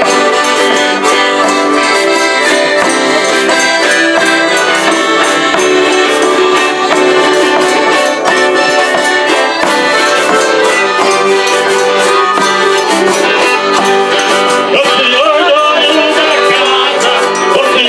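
Eight-bass button accordion (sanfona de oito baixos) playing a traditional folia tune over a steady shaken-percussion rhythm. A wavering higher melody line joins near the end.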